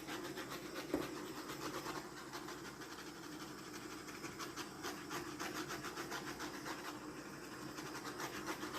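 Handheld torch flame hissing steadily with a fast flutter as it is passed over wet acrylic pour paint to pop bubbles and bring up cells.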